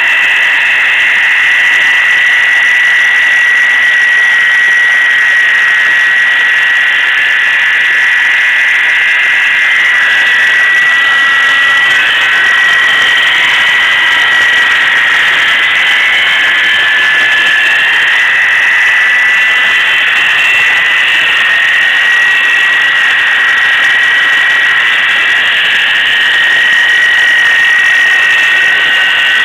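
Failing idler pulley on a Crown Victoria Police Interceptor's running 4.6-litre V8, giving off a loud, steady high-pitched squeal with several wavering tones over it: the sign of a bad idler pulley on the accessory drive belt.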